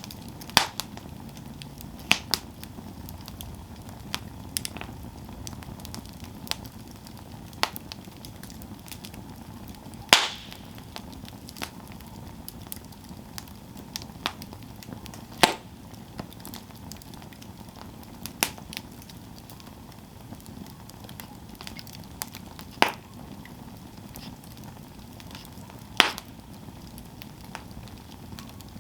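Wood campfire burning: a steady low hiss with sharp pops and crackles every few seconds.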